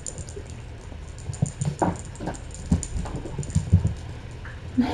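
A cat playing with a toy: a run of light, irregular taps and thumps that starts about a second in.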